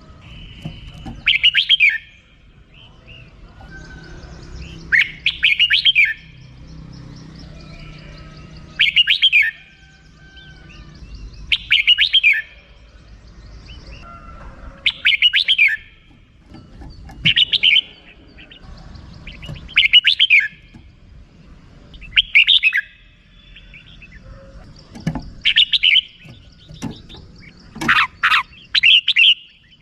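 Red-whiskered bulbul giving its harsh, chattering 'rik' call in short bursts, about ten of them, one every two to three seconds.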